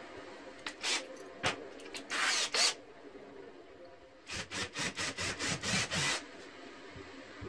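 Rasping hand-tool strokes during workshop work: a few separate strokes, then a quick run of about eight strokes, roughly four a second.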